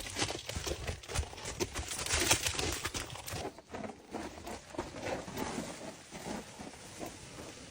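Rapid, irregular run of thuds and cracks from underground blasting, loudest about two seconds in and thinning out after about three and a half seconds.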